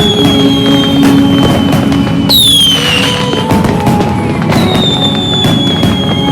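Dense New Year fireworks and firecrackers crackling and popping without a break, with whistling fireworks gliding down in pitch. A long, slowly falling whistle runs at the start, a sharper falling whistle comes about two seconds in, and another long falling whistle starts about four and a half seconds in.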